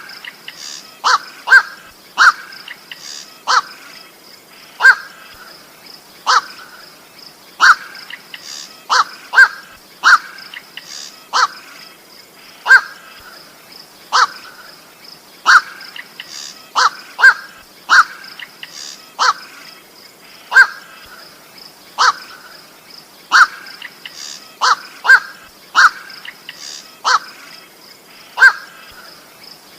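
Harsh single 'koak' calls of the bird known in Indonesia as koak or goak, repeated about once every second or so and sometimes doubled in quick pairs. A steady high-pitched whine runs under the calls.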